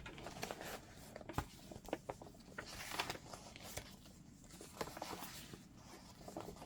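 Faint rustling and scattered small taps of a handmade fabric-and-paper junk journal's pages being turned and handled.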